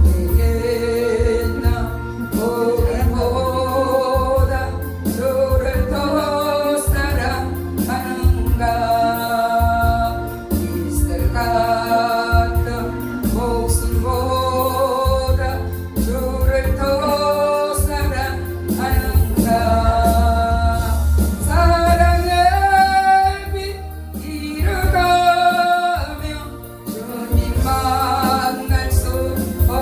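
A solo voice singing a gospel song over an accompaniment track with a steady bass beat, holding long notes that waver in pitch.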